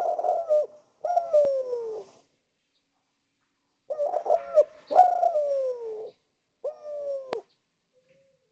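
Spotted dove (derkuku/tekukur) cooing: a phrase of falling coo notes, a pause of about two seconds, then a second phrase of three falling coos.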